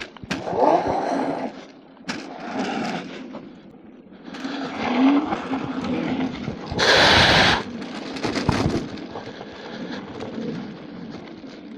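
Dual-motor electric scooter accelerating in bursts over snow, its tires churning and slipping on the surface. The loudest burst comes about seven seconds in.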